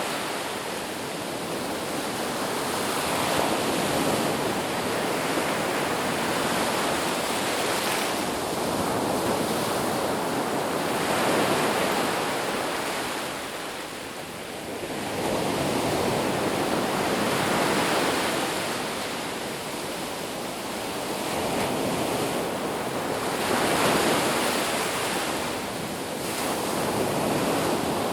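Ocean surf washing onto a beach, a steady rush that swells and ebbs as waves break and draw back every few seconds.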